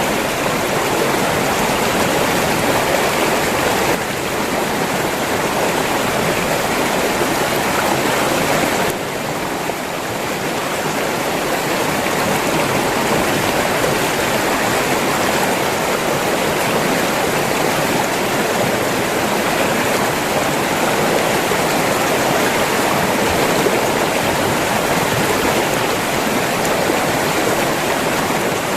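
River water flowing and rushing in a steady, dense wash, dipping slightly in level about nine seconds in before building back.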